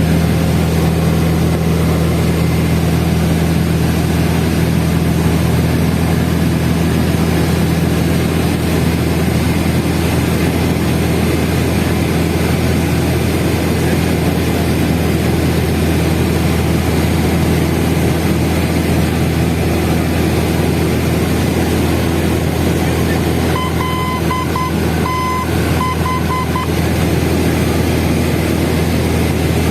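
Cessna 172N's four-cylinder Lycoming O-320 engine and propeller droning steadily in flight on approach, with a constant hiss over it. About 24 seconds in, a few short high beeps sound for about three seconds.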